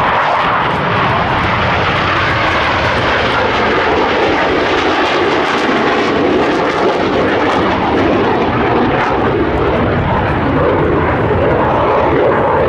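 US Navy Blue Angels F/A-18 Hornet fighter jets flying overhead, their twin jet engines making a loud, continuous noise that never breaks, with its tone shifting slowly as they move.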